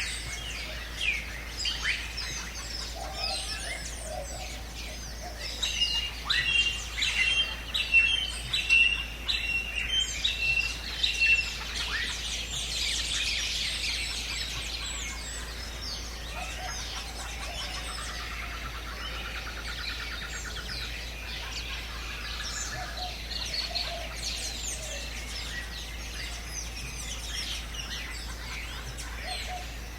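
Several birds calling and chirping together in a continuous chorus. One bird repeats a short note about a dozen times, starting about six seconds in, and a fast trill sounds about two-thirds of the way through.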